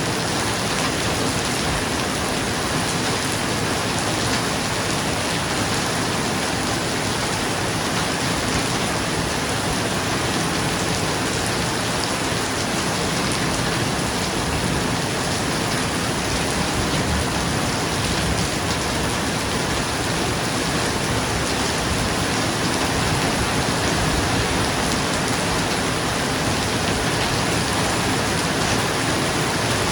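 Steady rain falling on a roof: a continuous, even hiss of drops with no thunder heard.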